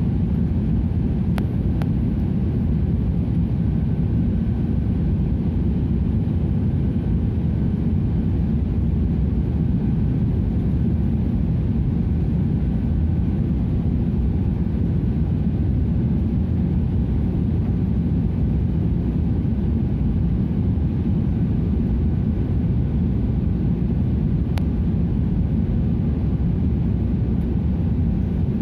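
Steady low rumble of a passenger airliner's engines and airflow, heard from inside the cabin during the flight.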